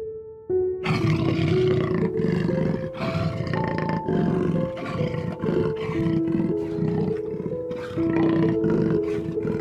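A lion roaring in a run of repeated roars starting about a second in, over background music with held notes.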